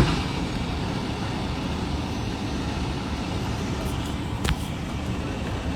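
Steady low rumble of idling heavy-vehicle engines, with a sharp knock at the very start and a short click about four and a half seconds in.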